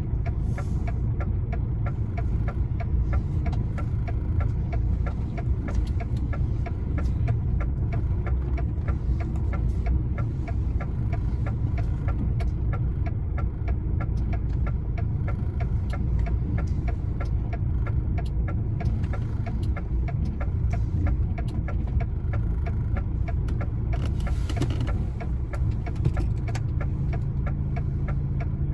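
Truck's diesel engine running at low revs, heard from inside the cab, with a steady rapid ticking over it. A brief hiss comes near the end, and the engine note settles to an even drone just after.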